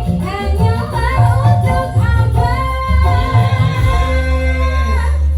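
Music with a singer holding long, bending notes over a heavy, steady bass line.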